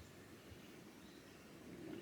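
Near silence: faint outdoor ambience with a low hiss.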